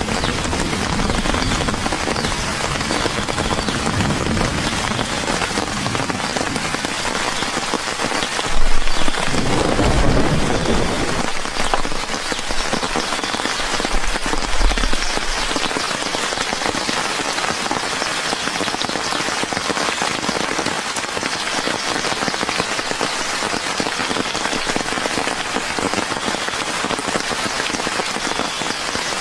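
Steady rain falling. A louder, low rumble lasts about two seconds a third of the way in, with a shorter one a few seconds later.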